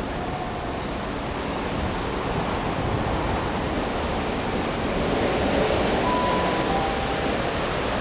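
A train running past the platform: a steady rushing rumble that grows a little louder midway, with a brief high squeal about six seconds in.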